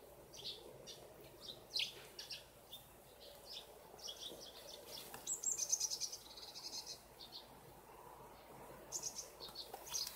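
Small birds chirping, short high chirps throughout, with a quick run of rapid chirps about five seconds in.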